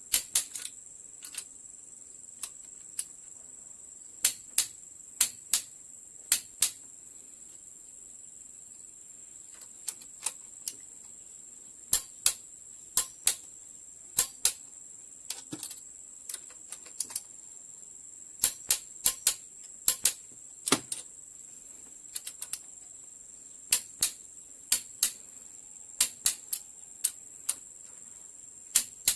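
Sharp metallic hand-tool clicks, many in quick pairs and irregularly spaced, over a steady high-pitched hiss.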